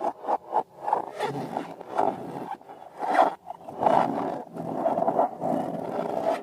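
Rubber balloons squeaking and rubbing as they are handled, in a quick run of short strokes that become longer, drawn-out squeaks about four seconds in.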